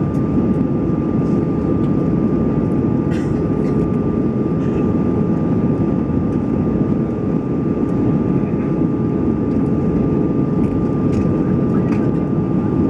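Steady in-cabin drone of an Airbus A320-214's CFM56 jet engines and airflow, with a thin steady whine and a lower hum over the rush, and a few faint light ticks.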